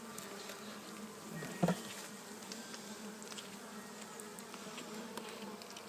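Honeybees in an opened top-bar hive humming steadily, with one sharp knock about a second and a half in.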